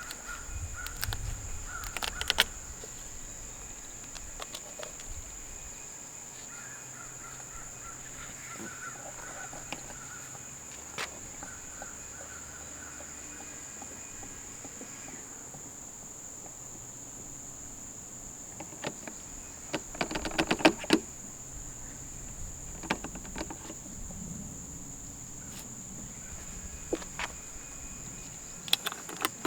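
Steady high insect drone, like crickets, with faint short chirps and a few scattered clicks and knocks, bunched about two-thirds of the way in.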